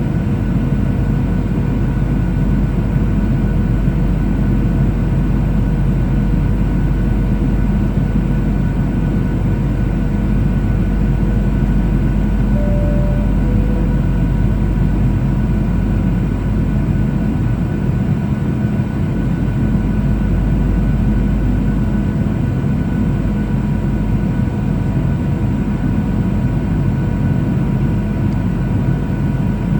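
Cabin noise inside a Boeing 737-800 in flight: a steady low rumble of its CFM56 engines and the airflow, with a few faint steady whining tones above it.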